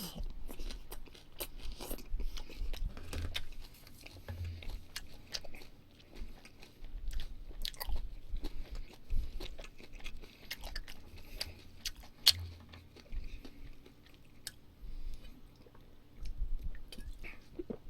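A person chewing barbecued meat close to the microphone, with many small wet mouth clicks and smacks scattered throughout.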